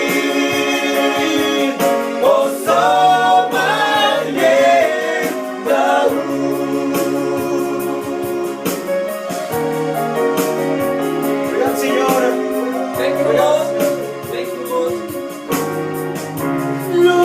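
Vocal quartet singing a gospel song in harmony, with held chords and sliding vocal lines.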